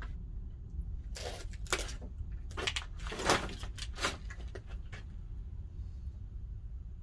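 Pine-log fire in a wood-fired kiln giving a steady low rumble. About a second in, a run of eight or so sharp cracks and knocks comes over it for a few seconds; the loudest is a little past the middle.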